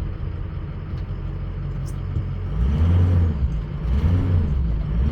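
Ford F-250 pickup heard from the cab stopping hard, then pulling away: a steady low rumble that gets louder about two and a half seconds in, with the engine note rising and falling twice. No clunk comes from the rear axle, the sign that the new rear wheel bearings have cured it.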